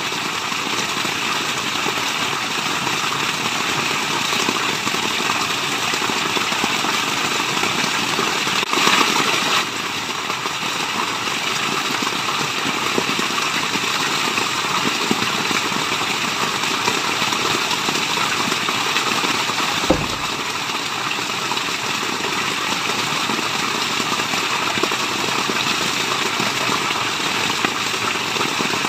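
Waterfall's steady rush of falling water, with a brief louder surge about nine seconds in and a short low thump about twenty seconds in.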